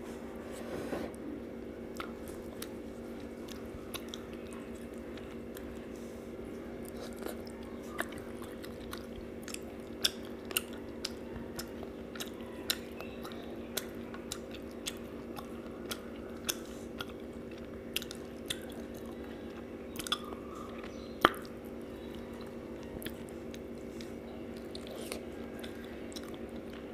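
Close-up chewing with many sharp, short mouth clicks and smacks, scattered unevenly, one much louder than the rest late on, over a steady low hum.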